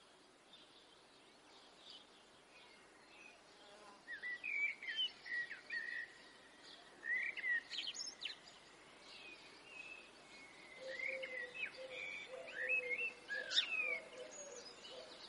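Birdsong: short chirps and whistles, beginning about four seconds in over a faint steady background, with a lower, steadier call joining in the last few seconds.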